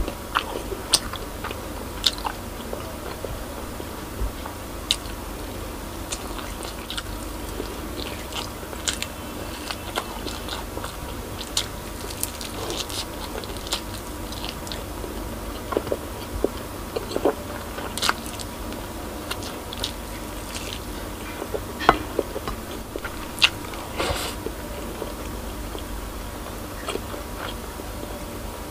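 Close-miked eating of braised pork spare ribs: biting and chewing meat off the bone, with many irregular sharp clicks and smacks of the mouth.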